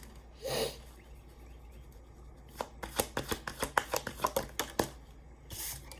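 Tarot deck being shuffled by hand: a quick run of card snaps lasting a couple of seconds, with a soft swish of cards about half a second in and another near the end.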